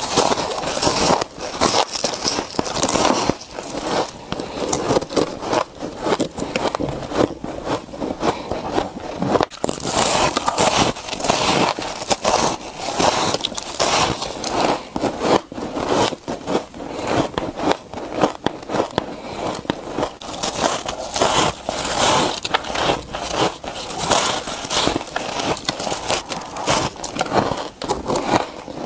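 Close, continuous crunching and crackling of a person biting and chewing humidifier frost, soft freezer frost that crumbles between the teeth.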